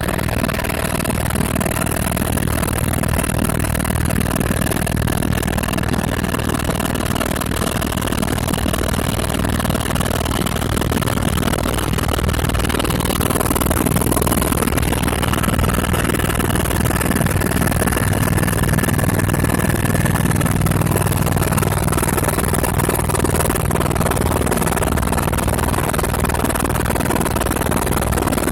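Helicopter in flight, its engine and rotor running at a constant drone with a steady high whine over it.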